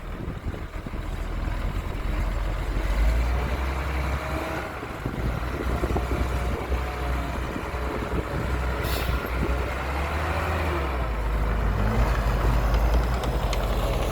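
Heavy diesel engine of construction machinery running steadily with a low hum, revving up about ten seconds in. A short air hiss sounds about nine seconds in.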